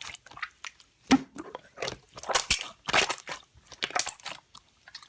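Slime being squished and pressed by hand, making irregular crackling, clicking pops.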